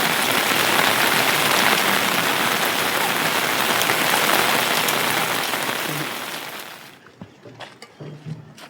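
Heavy, steady rain falling. It fades away about two thirds of the way through, leaving a few faint knocks.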